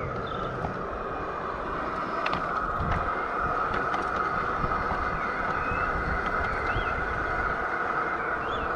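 G scale model train running on the garden railway track: a steady whine from its motor and gears over a low rumble of wheels on the rails.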